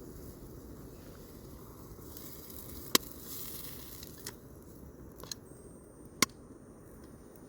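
Burgers cooking slowly on a camp stove: a faint, steady sizzle with four sharp crackles or clicks spread through it.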